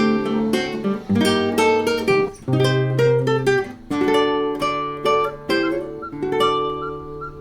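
Background music: an acoustic guitar plucking a melody over chords.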